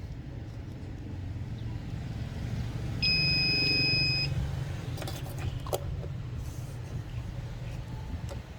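A single steady electronic beep lasting a little over a second, about three seconds in, over a constant low rumble. A few sharp clicks follow soon after it.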